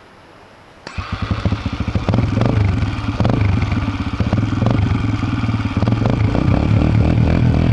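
Dirt bike engine coming in suddenly about a second in, then running loud and steady with rapid firing pulses.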